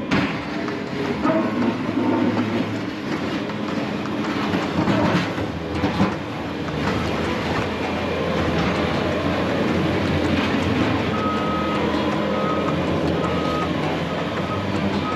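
Plow truck working: a steady rumble of engine and scraping noise with a few knocks, and a short high beep that starts about two-thirds of the way in and repeats quickly.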